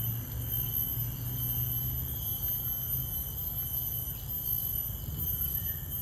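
Steady high-pitched insect drone of the tropical forest, two continuous thin tones, over a low steady rumble.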